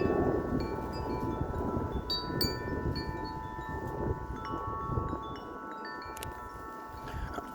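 Wind chimes ringing in the wind: many overlapping struck tones that ring on and fade. Underneath is low wind rumble on the microphone.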